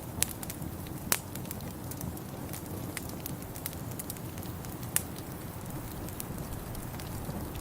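Wood fire burning in a fireplace: sharp crackles and pops over a low steady rumble, with three louder pops at about a quarter second, one second and five seconds in.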